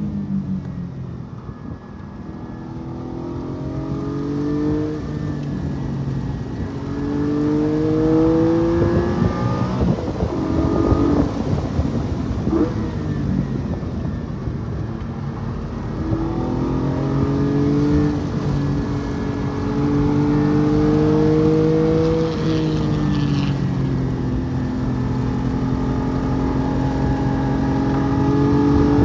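Porsche 718 Cayman GT4's 4.0-litre flat-six, heard from inside the cabin, pulling in second gear through corners. The engine note climbs in pitch, eases off about ten seconds in, climbs again, holds fairly steady and starts rising once more near the end.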